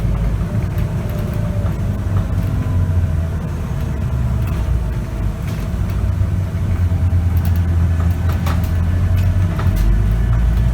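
Scania K94UB city bus's diesel engine running as the bus drives, heard from inside the cabin, with light rattles from the interior. The engine note deepens near the end.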